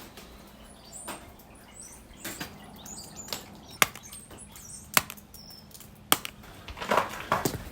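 Scattered sharp clicks and knocks over light scraping and crunching as snow is scooped up and gathered by hand; the scraping gets busier near the end.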